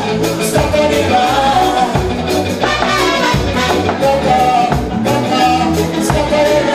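A live band playing upbeat dance music, with a singer over a bass line and drums keeping a steady beat.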